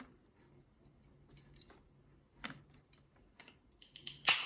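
A green-cheeked conure's beak picking at walnuts and shell pieces: scattered light clicks and taps, with a louder sharp click near the end.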